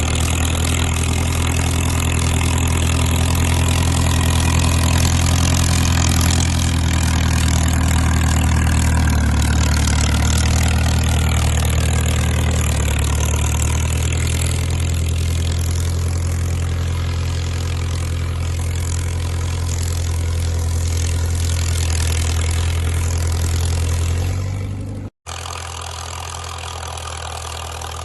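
Caterpillar crawler dozer's diesel engine running steadily. Near the end the sound cuts out for an instant and resumes quieter.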